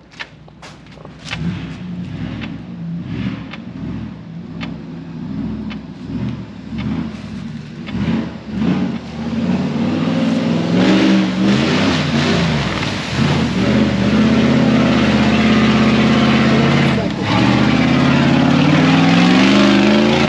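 Mud truck's engine revving up and down as it is driven through mud, then held at high revs for the last several seconds. A few sharp clicks sound near the start.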